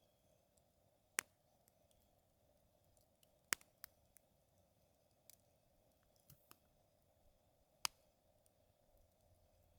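Wood fire crackling: a few sharp pops at irregular intervals, three of them loud, about a second in, three and a half seconds in and near eight seconds, with fainter snaps between them.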